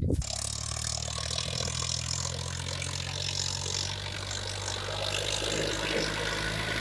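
Swaraj 963 FE tractor's diesel engine running at a steady speed, its pitch holding even throughout.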